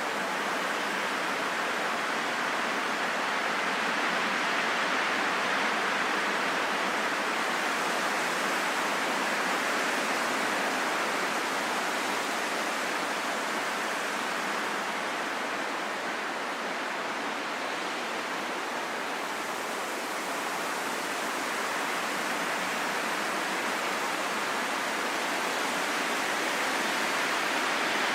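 Steady wind noise: an even rushing hiss that slowly swells and eases, with no sharp gusts and no other sounds.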